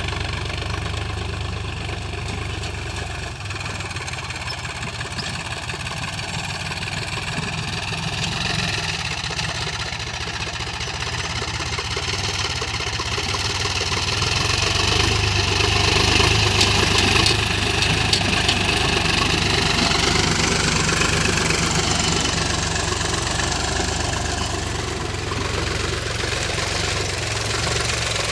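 The engine of a ploughing machine running steadily. It grows louder for several seconds past the middle, then eases off again.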